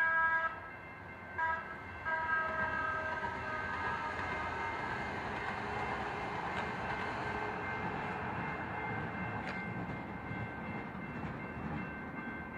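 Train horn sounding for a grade crossing: a long blast ending just after the start, a short one about a second and a half in, then a longer one from about two seconds that fades out. Under and after it, the rumble of the train passing the crossing grows heavier toward the end.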